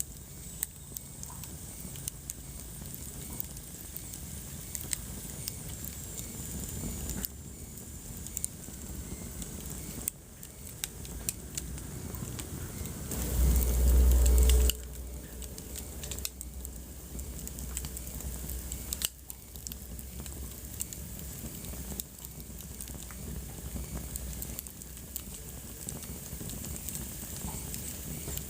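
Wood fire in a fireplace crackling, with frequent sharp pops and snaps over a soft steady hiss. About halfway through, a louder low rumble lasts a little over a second.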